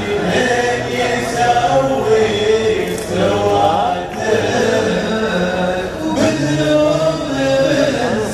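Male voices chanting a slow melody in layered, choir-like harmony, with long held notes, in the manner of a Gulf Arabic sung poem.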